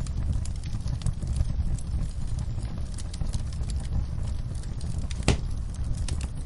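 Fireplace fire crackling: scattered small pops over a steady low rumble, with one sharper crack near the end.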